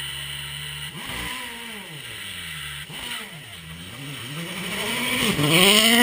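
Rally car engine revving up and down again and again, then climbing to its highest and loudest rev about five to six seconds in as the car drives away.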